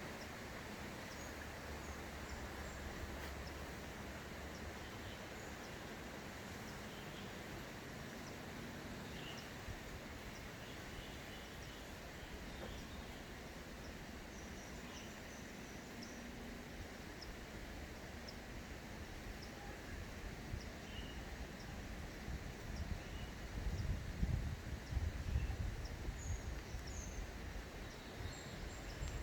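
Outdoor nature ambience: a steady background hiss with scattered faint, short bird chirps. A low, uneven rumble swells briefly near the end.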